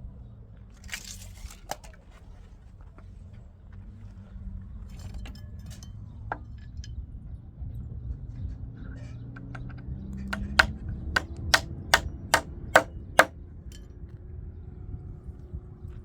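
A run of about seven sharp, evenly spaced knocks, roughly two or three a second, over a low steady rumble, with scattered lighter clicks earlier.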